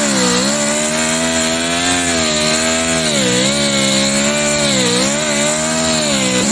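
Electric motor of a handheld power tool running steadily, its pitch sagging and recovering several times as it is loaded.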